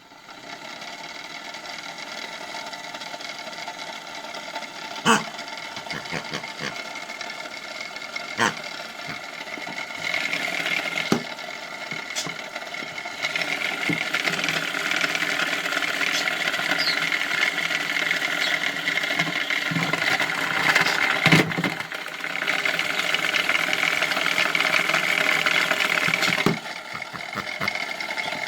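Small electric motor of a modified toy washing machine running with a steady whine, objects inside the drum knocking and rattling now and then, with a few sharp clunks.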